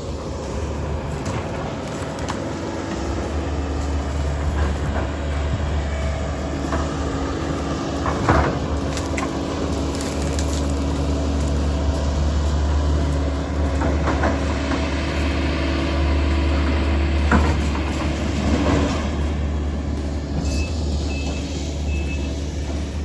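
A heavy engine running with a steady low drone, with a few knocks and clunks over it, loudest about eight and seventeen seconds in.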